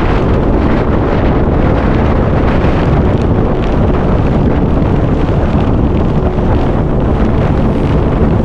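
Storm-force mountain wind, too strong to stand in, blasting over the microphone: a loud, steady low rumble with no let-up.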